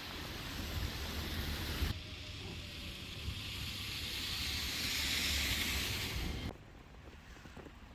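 Steady rushing noise with a low rumble, changing abruptly about two seconds in and dropping much quieter near the end.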